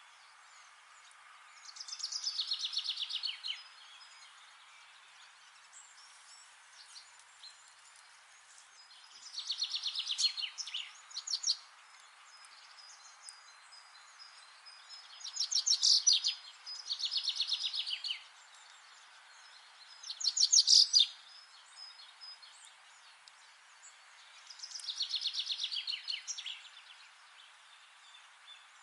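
Songbirds singing in a forest: about six trilled songs, each a rapid run of notes falling in pitch and lasting a second or two, spaced a few seconds apart over a steady background hiss.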